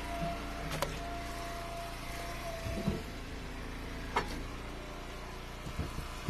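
Eastonmade hydraulic wood splitter's engine running steadily, with a thin steady whine over the first few seconds. Two sharp knocks cut through, about a second in and again past the middle.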